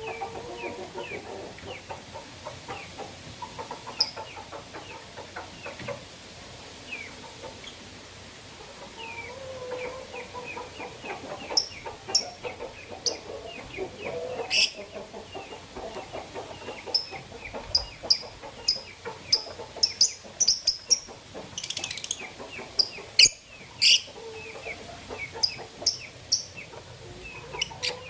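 Lovebirds chirping: a steady stream of quick, short calls, with sharper, louder high-pitched chirps coming thick and fast in the second half.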